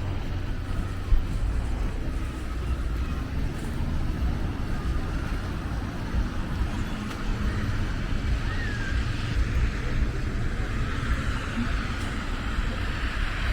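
Outdoor street ambience: a steady low rumble with a hiss over it, and one short gliding chirp about eight and a half seconds in.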